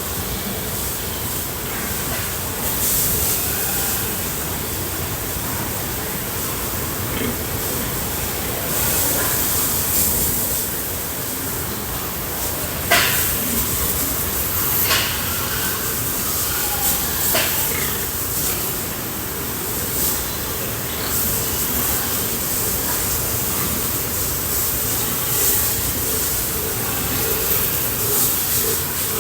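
Steady hiss of water being sprayed, with a few short sharp knocks in the middle.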